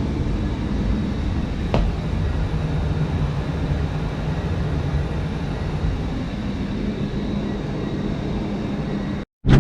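Newly installed air-conditioning condenser running: a steady low rumble and rush of its fan and compressor, with a single click about two seconds in. The sound cuts off abruptly just before the end.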